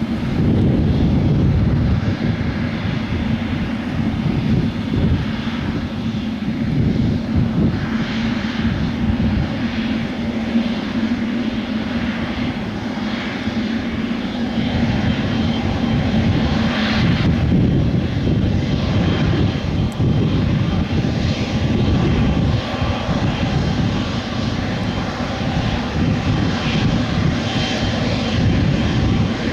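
Jet airliner engines at takeoff power, a loud, steady rumble with a low drone running underneath.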